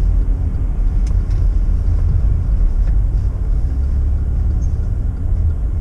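Car driving slowly, with a steady low rumble of engine and road noise.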